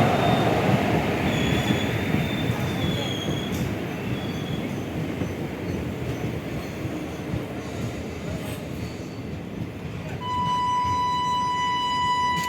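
A train moving on the station tracks: steady rail rumble with a thin high wheel squeal in the first few seconds, fading over about ten seconds. About ten seconds in, a steady high-pitched tone starts and holds.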